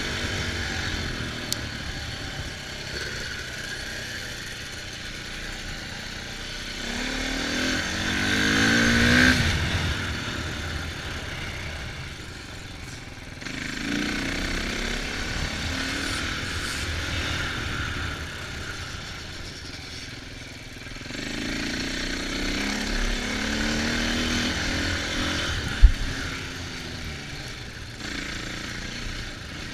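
Dirt bike engine revving up and easing off in several surges while riding off-road, over steady wind noise. A sharp thump near the end.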